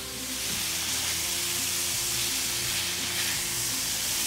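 Chopped lobster meat sizzling as it sautés in butter and olive oil in a frying pan, stirred with a spatula; a steady hiss that grows a little louder about half a second in.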